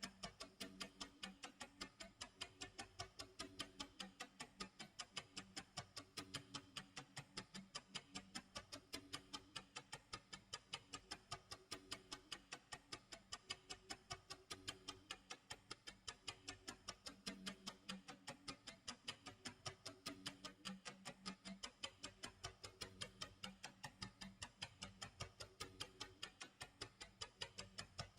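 Clock tick-tock sound effect: quiet, evenly spaced ticks, several a second and never pausing, over faint low tones.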